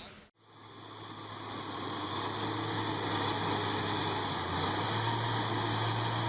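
A vehicle engine running steadily with a low, even hum. It fades in after a sudden cut about half a second in.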